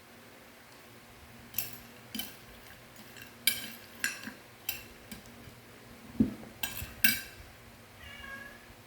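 Crispy dry macaroni snack crunching as it is bitten and chewed, about eight sharp crunches spread over several seconds, followed near the end by a short high-pitched sound.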